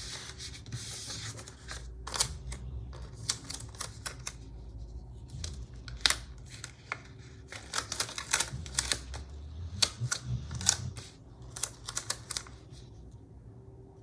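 Hands working with sticker sheets and paper on a planner: irregular sharp clicks and taps as stickers are peeled and pressed down, over a low steady hum.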